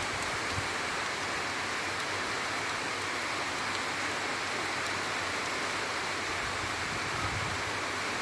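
Heavy rain falling steadily, a dense, even hiss with a few faint low bumps near the end.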